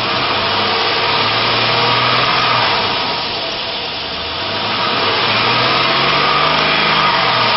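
A 5.3-liter V8 in a 1999 Chevrolet Silverado 1500 running, its level and pitch rising and falling twice as it is revved.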